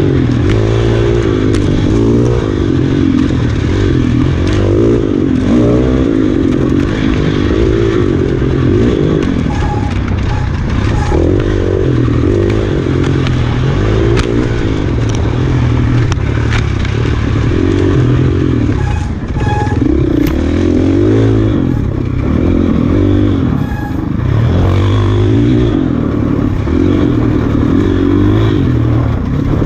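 Enduro dirt bike's engine revving hard and easing off again and again as it is ridden over rough trail, its pitch rising and falling every second or two, with rattling and scraping from the bike going over the ground.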